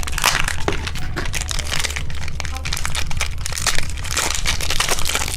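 Plastic candy packaging crinkling and crackling steadily as a toy cookie egg is unwrapped by hand.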